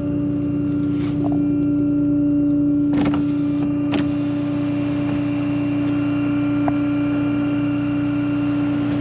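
Tow truck engine running with a steady, unwavering hum over a low rumble, with a few short knocks about one, three and four seconds in.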